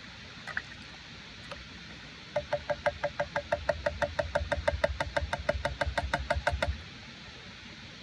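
Knife chopping rapidly on a cutting board, an even run of sharp knocks about seven a second for roughly four seconds, stopping suddenly.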